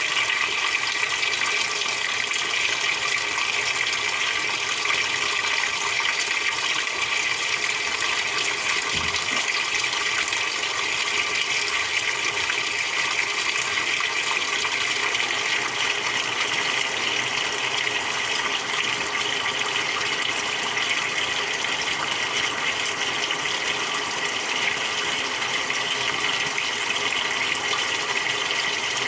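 Samsung 6.5 kg top-loading washing machine with water rushing steadily through it, a continuous hiss at an even level.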